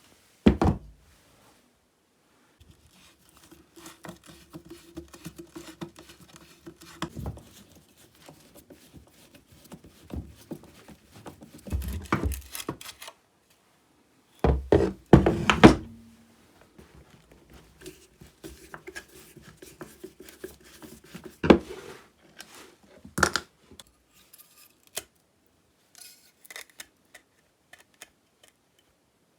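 Chainsaw parts being handled and cleaned on a workbench: scattered knocks and clatter of small parts set down and worked on. A faint steady hum runs twice for a few seconds.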